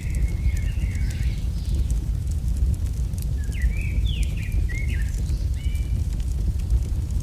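AI-generated campfire ambience: a steady low rumble of fire with faint scattered crackles. Short bird chirps come in the first second or so and again around the middle.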